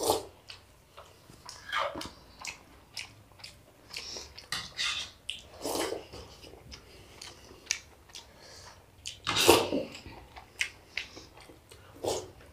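People chewing and smacking their lips while eating rice and curry with their hands, full of short wet mouth clicks and a few louder smacks, the loudest about nine and a half seconds in.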